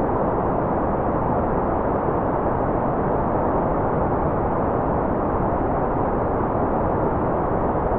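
Steady generated white noise: an even, unchanging hiss with no breaks or changes. It sounds dull and muffled, because the treble is cut off.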